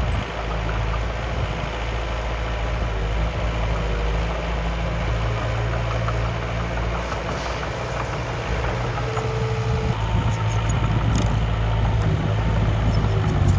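Miniature radio-controlled construction machine running with a steady, engine-like idle hum, getting a little louder about ten seconds in.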